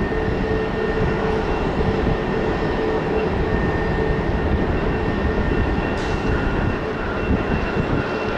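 Jet airliner engines running, a steady whine of several held tones over a low rumble.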